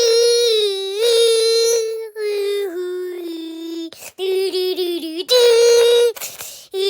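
A high-pitched child's voice singing a wordless melody of held notes that step up and down in pitch, as a vocal imitation of a soundtrack, with short breaks between phrases.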